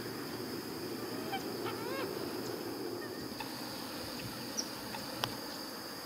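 Birds calling: a few short rising calls about one and a half to two seconds in, over a steady high insect drone. Two sharp clicks sound near the end.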